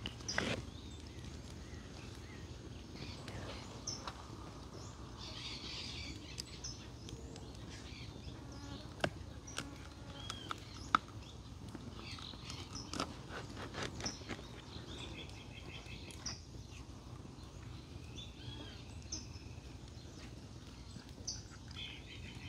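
Birds chirping in short calls over a steady low rumble, with a few sharp clicks scattered through, the loudest about eleven seconds in.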